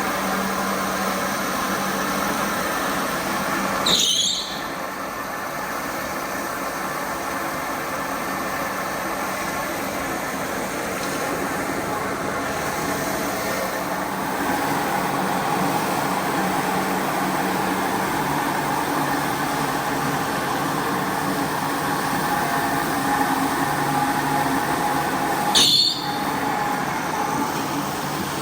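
A carpet-cleaning machine's motor running steadily. A brief, loud, high squeak cuts in about four seconds in and again near the end.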